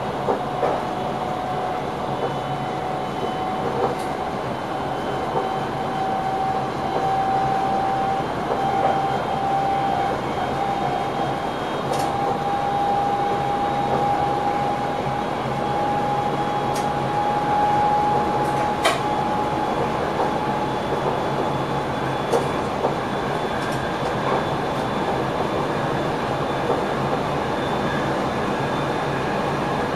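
Electric passenger train running, heard from inside the driver's cab: a steady rumble of wheels and rails with a thin whine that rises slowly in pitch over about twenty seconds, then fades. A few sharp clicks come through at irregular moments.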